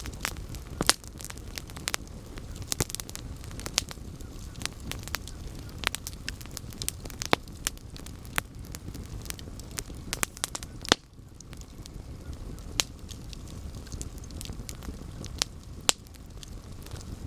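Wood campfire burning, with irregular sharp crackles and pops over a steady low rumble of flame. A few louder pops stand out, near 1, 11 and 16 seconds in.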